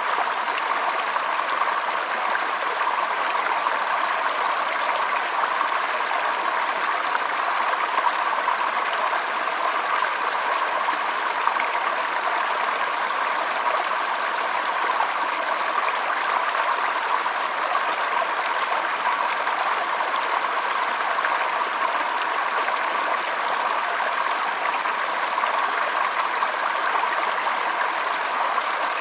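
Shallow stream flowing steadily, a continuous even trickle and rush of water.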